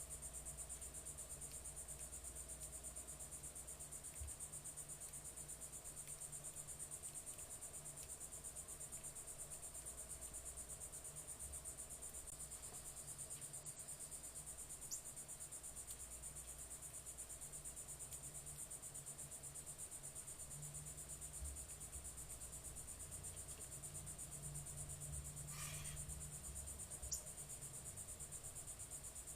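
Insects, crickets by the sound of it, trilling in a steady, high-pitched chorus, with a few faint clicks now and then.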